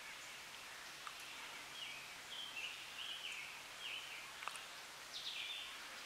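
Woodland ambience with a bird calling: a run of about five short, high notes that each step down in pitch, about two a second, then one more a little later, with a single sharp click in between.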